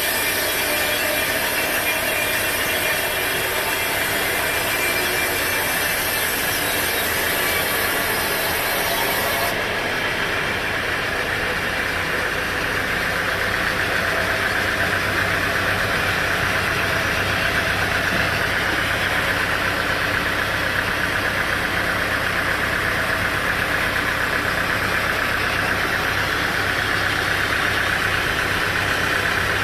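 A sawmill running under load: steady grinding noise of a saw cutting through wood, over an engine running. About ten seconds in the sound changes abruptly to a lower, steady engine drone under the cutting noise.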